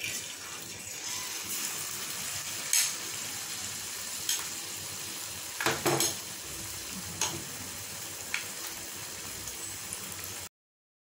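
A batter-coated raw plantain slice deep-frying in hot oil in a frying pan: a steady sizzle with a few sharp pops and crackles. The sound cuts off suddenly near the end.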